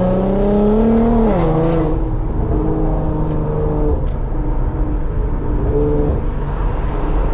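Infiniti Q50's loud aftermarket-style exhaust while driving. The engine note climbs slightly, then falls about a second and a half in as the revs drop, and settles into a steady, lower cruising drone with a rumble beneath. It is very loud.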